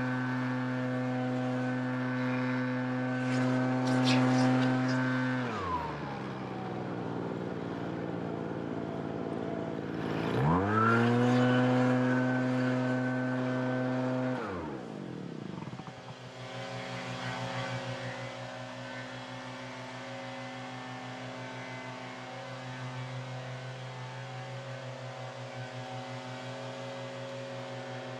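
Small petrol engine running at high revs. About five seconds in it winds down, revs back up around ten seconds, winds down again near fifteen seconds, and then runs on steadily at a lower, faintly pulsing speed.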